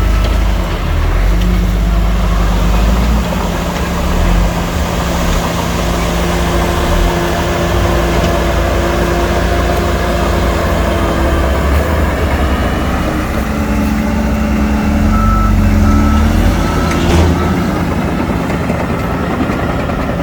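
Heavy diesel engines of a bulldozer and dump trucks running, their pitch shifting as the load changes. A few short, high reversing-alarm beeps sound about three-quarters of the way through.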